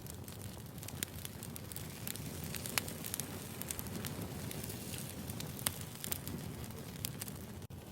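Wood fire burning, with irregular sharp crackles and pops over a low, steady rumble of flames.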